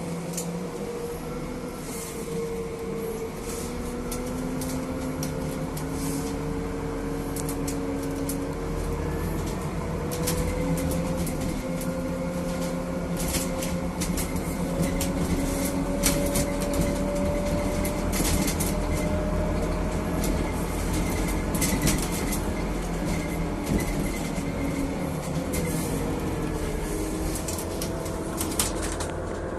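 Scania Citywide 12LF CNG city bus on the move, heard from inside: its five-cylinder gas engine runs steadily, its pitch rising gradually through the middle and falling near the end, with frequent rattles and knocks from the body and fittings.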